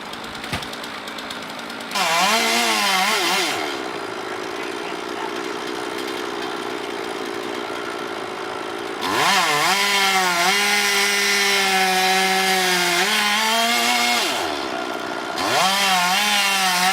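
Two-stroke chainsaw revved up in three bursts, falling back to a lower, quieter running speed between them. The longest burst is held at high revs for about five seconds.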